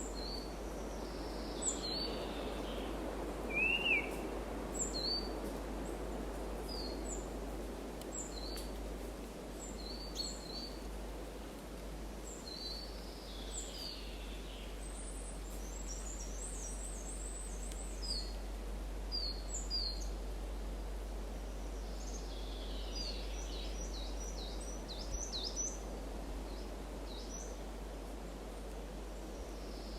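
Several wild birds chirping with short, high, repeated calls and a few soft downward-sliding calls, over a steady background hiss and low rumble. The loudest call comes about four seconds in.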